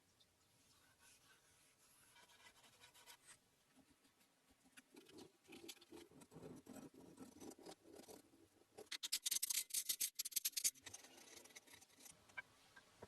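Faint scratching and rubbing. About nine seconds in comes a quick run of rapid, sharp scraping strokes lasting under two seconds.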